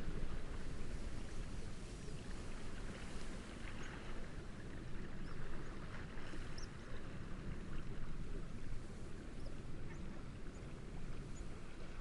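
Steady wind through reeds with gentle waves lapping, and a few faint, short, high bird chirps scattered through.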